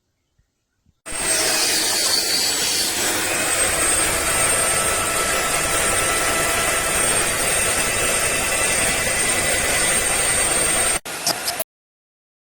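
Vacmaster SCA0801 carpet spot cleaner's suction motor switched on, running steadily with a high whine. It cuts off near the end.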